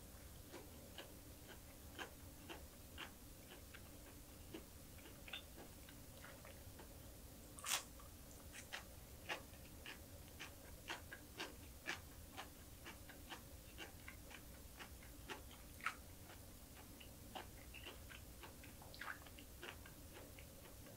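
Close-up crunchy chewing of a mouthful of small dried anchovies and green chili peppers: a scatter of soft crisp crunches and clicks, with one louder crunch about a third of the way in.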